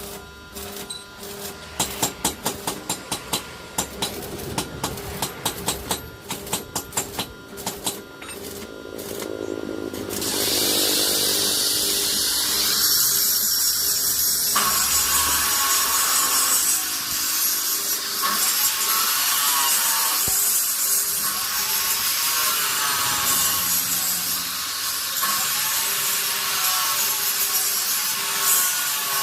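A run of sharp metallic taps, then a power tool that starts about ten seconds in and runs steadily to the end. The tool is most likely an angle grinder working steel: its pitch dips and recovers about every two seconds as it bites into the metal.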